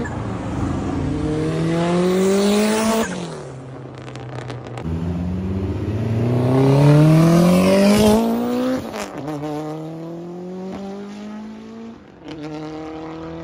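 A performance car's engine revving hard under acceleration. Its pitch climbs steeply, drops at an upshift about three seconds in, and climbs again through the next gear. It then settles to a steady lower drone for the last few seconds.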